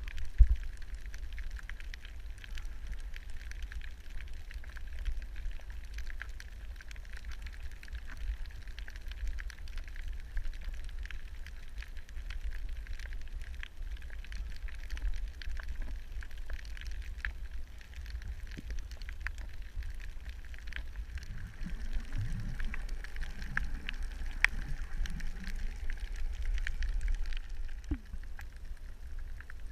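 Underwater ambience on a coral reef: a dense, steady crackle of tiny clicks over a low rumble, with a few low wavering sounds a little past the middle.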